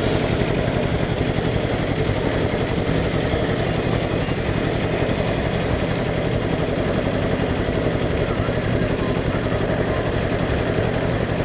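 Engine of a 7¼ inch gauge miniature railway locomotive running steadily with a fast, even beat.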